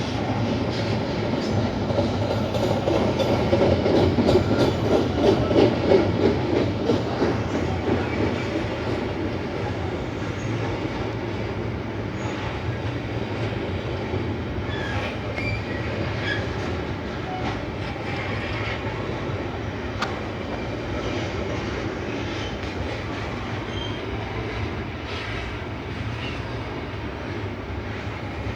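Freight train of flatcars rolling past: steady rail noise with wheels clattering over the joints and short, scattered wheel squeals. Loudest during the first several seconds.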